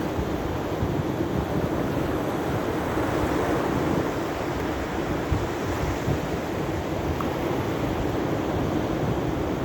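Sea waves washing on the shore under a steady rush, with wind buffeting the microphone in a low, uneven rumble.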